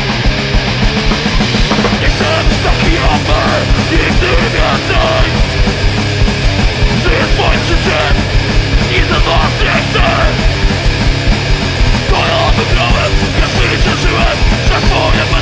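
Hardcore punk band playing a loud song.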